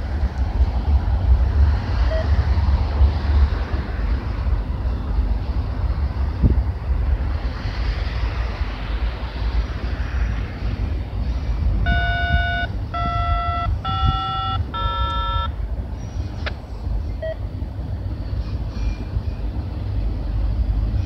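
A slow freight train of multi-level autorack cars rolling past: a steady low rumble. About twelve seconds in, four short electronic beeps at different pitches sound one after another.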